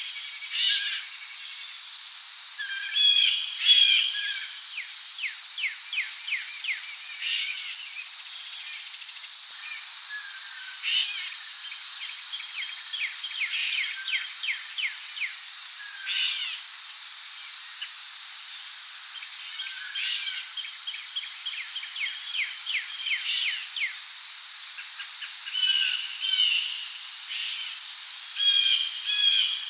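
Tropical rainforest ambience: a steady high-pitched insect drone from crickets, with runs of rapid chirping and scattered bird calls, a few louder calls near the start and again near the end.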